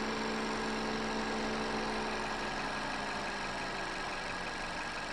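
2018 Toyota Camry's 2.5-litre A25A-FKS four-cylinder engine idling steadily, with the air conditioning running.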